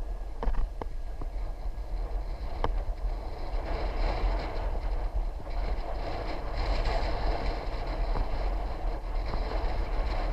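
Wind buffeting the microphone over the running noise of a bicycle's tyres on the road, the rush growing louder a few seconds in. A few sharp clicks or rattles sound early on.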